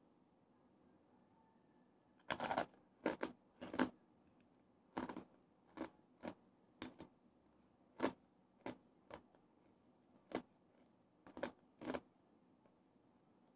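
Crispy chicharon bulaklak (deep-fried pork mesentery) crunching as it is chewed close to the microphone: a string of sharp, irregular crunches starting about two seconds in.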